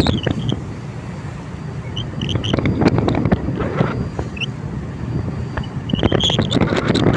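A boat engine drones steadily, with wind gusting hard against the microphone and surging loudest near the start and again near the end. A few short high chirps come through in the middle.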